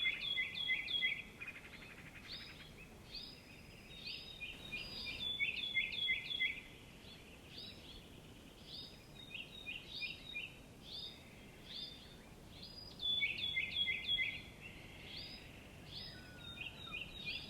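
Birds chirping: quick runs of three to five short chirps, each note dropping in pitch, repeated again and again over a steady low background hiss.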